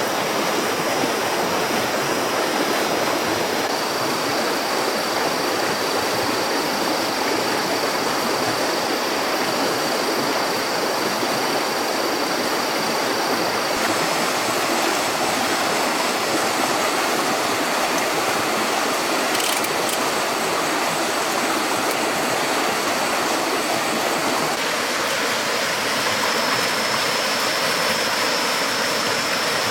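Steady rushing water, like a stream or small waterfall, running without a break, with thin steady high-pitched tones above it.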